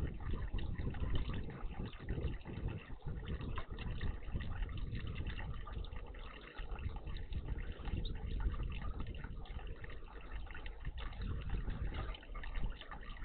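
Water splashing and trickling in a garden bird bath, over a steady low rumble.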